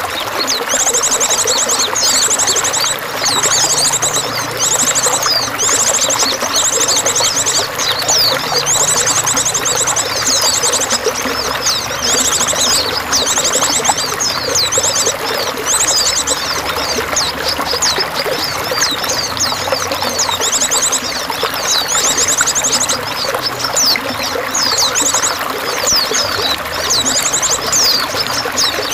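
Steady trickling, running water with small birds chirping over it. A short, fast, high trill repeats about every second.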